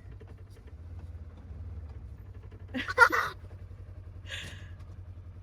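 A vehicle engine running steadily with a low rumble. A brief voice sound comes about three seconds in, then a short breathy hiss.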